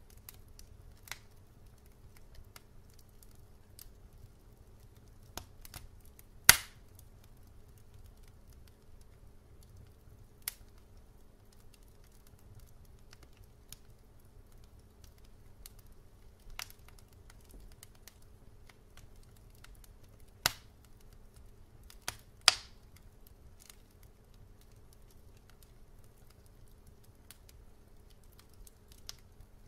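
Wood fire burning in a fireplace, crackling with scattered sharp pops, two of them louder, about a fifth of the way in and about three quarters of the way in, over a faint steady low hum.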